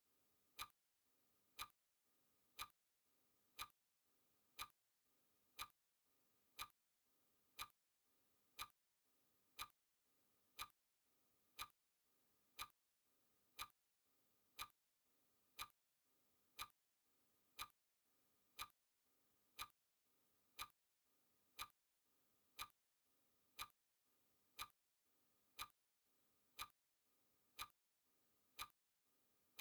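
Clock-style ticking sound effect marking each second of a countdown timer: short, sharp, faint ticks, one a second, evenly spaced.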